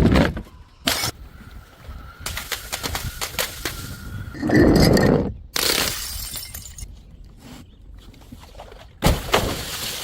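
Glass bottles smashing one after another, each break followed by shards clinking and scattering. The loudest and longest smash comes about halfway through, and another sharp break near the end.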